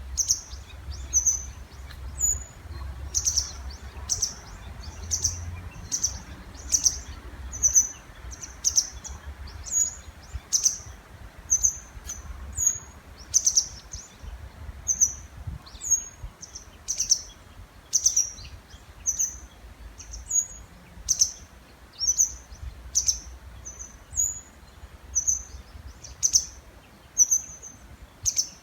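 Unidentified birds calling back and forth in the breeding season: short, sharp, high chirps repeating about once a second, two slightly different calls alternating.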